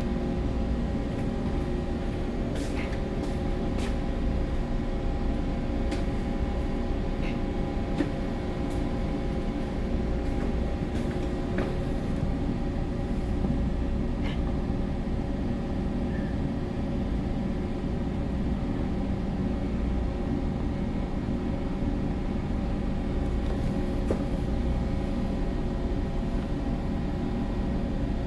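Steady low hum and rumble of a bulk carrier's engine and machinery heard on the bridge while the ship is under way, with a few faint clicks.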